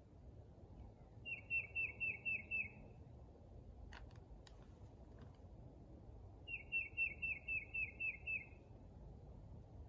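A songbird singing two short phrases about five seconds apart, each a quick run of six to eight repeated chirping notes. A couple of faint clicks come between them, over a low steady outdoor hiss.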